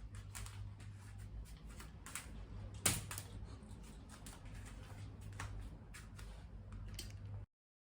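Scattered small clicks and taps over a steady low hum, with one louder click about three seconds in. The sound cuts out to dead silence near the end.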